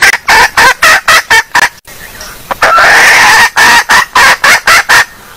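Female junglefowl clucking loudly in a quick run of short calls, about five a second, with a longer drawn-out call in the middle before the quick clucks resume; a hen call used to lure junglefowl.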